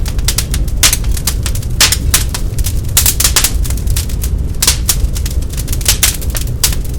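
Wood log fire in a fireplace crackling, with dense irregular snaps and pops, several a second, over a steady low rumble of the burning.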